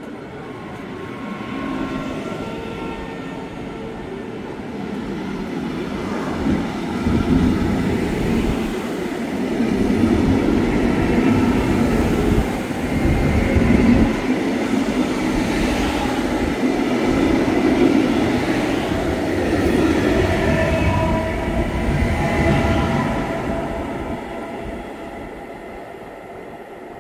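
A train passing on the track. The rumble and wheel clatter grow over the first several seconds, stay loud through the middle, and die away near the end.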